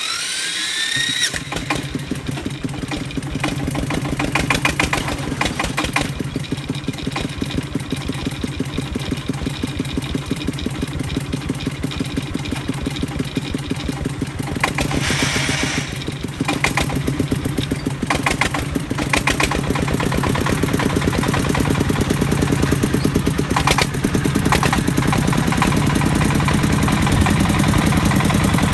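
Agricultural vehicle's engine running with an even, rapid beat. There is a rising whine in the first second, and the engine grows louder toward the end.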